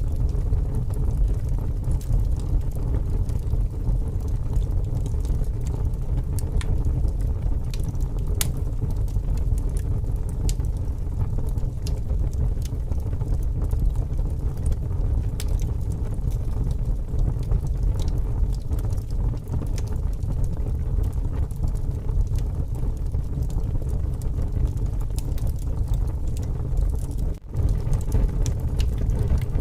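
Wood fire crackling with scattered sharp pops over a steady low rumble of strong wind, which cuts out for an instant near the end.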